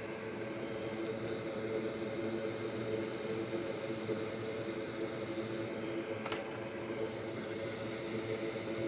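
Steady whir of an electric fan at a soldering bench, with a low hum running under it. A single sharp click about six seconds in.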